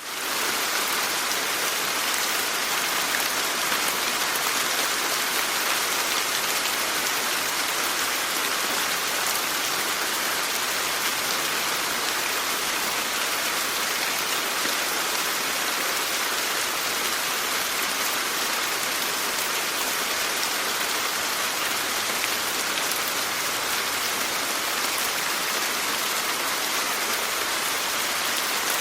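Steady rain falling, a dense even patter of raindrops on surfaces that fades in over the first half second and then holds level.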